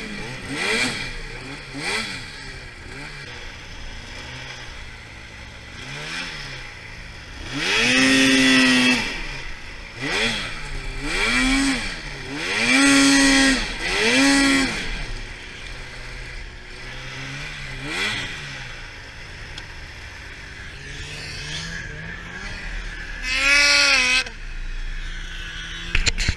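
2013 Arctic Cat F800 RR snowmobile's two-stroke twin engine revving repeatedly, its pitch climbing and dropping back each time. A few small blips come first, then a run of hard revs about a third of the way through, and one last hard rev near the end.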